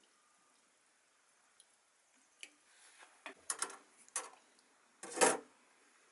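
Light clicks and clinks of small parts and hand tools being handled during carburettor work, with a louder, longer clatter about five seconds in.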